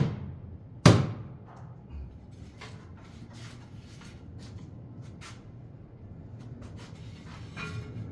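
Two hard knocks, one at the start and one about a second in, each ringing out briefly, followed by scattered light clicks and taps of work noise.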